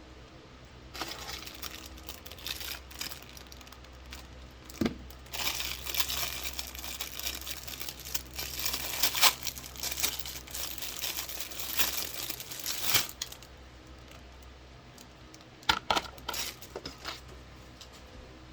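Plastic packaging crinkling and rustling as it is handled and pulled away, with scattered clicks and light knocks. The crinkling is thickest through the middle and thins out near the end.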